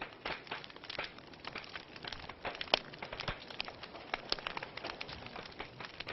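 Wood fire crackling in a fireplace: irregular sharp pops and snaps over a steady hiss of burning logs, with one louder pop a little under three seconds in.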